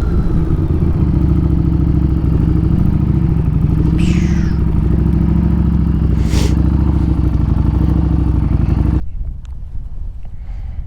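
Harley-Davidson Street Rod 750's V-twin engine running steadily while riding. It cuts off abruptly about nine seconds in, leaving much quieter low noise.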